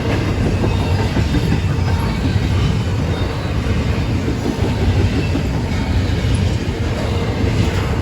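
Freight train rolling past at close range: a steady, loud rumble of steel wheels on the rails with some clatter.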